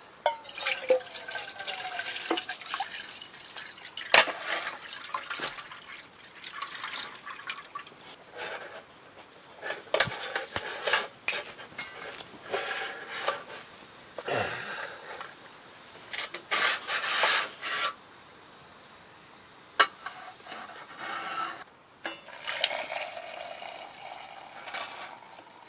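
Camp dishes and utensils being handled: scattered clinks and knocks with short rubbing and scraping noises in bursts.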